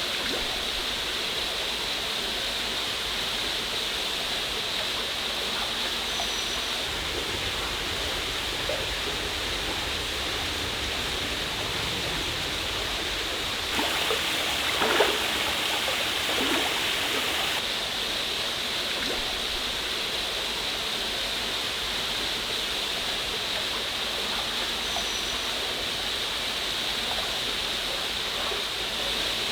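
Waterfall rushing steadily, growing a little louder for a few seconds about halfway through.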